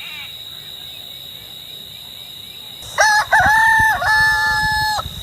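A rooster crowing once, about three seconds in: a short opening note, then a long held call of about two seconds. A steady high-pitched whine runs underneath.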